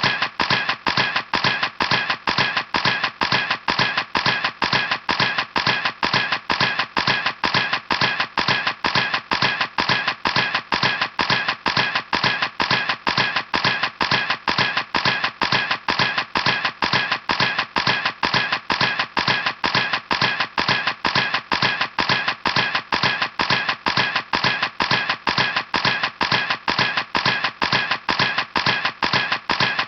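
Camera shutter clicking repeatedly at an even rate of about three clicks a second, like a steady continuous burst.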